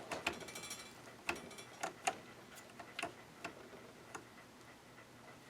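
Light irregular clicks from turning the stitch-selector knob and its mechanism on a Janome ME4014 sewing machine, thinning out near the end. The selector stops after three settings instead of going almost all the way around, a sign that the mechanism is binding.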